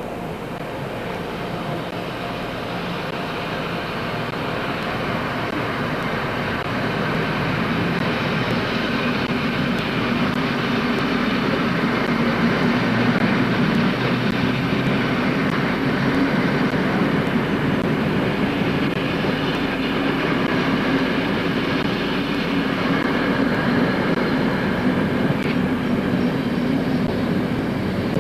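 Diesel train running along the track, a continuous rumble that grows louder over the first ten seconds or so, then holds steady.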